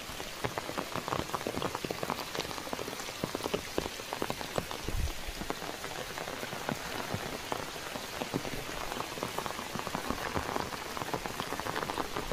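Steady rain falling, a dense patter of drops striking surfaces, with a brief low thump about five seconds in.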